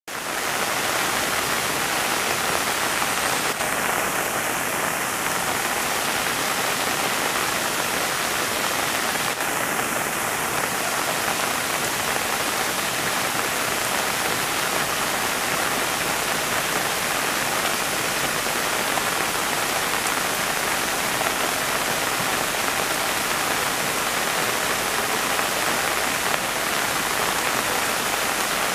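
Heavy rain falling steadily on tree foliage: an even, dense hiss.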